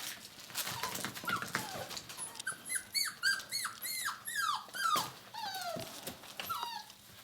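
Six-week-old puppy whining and yelping: a quick run of short, high-pitched cries, each falling in pitch, coming thickest in the middle.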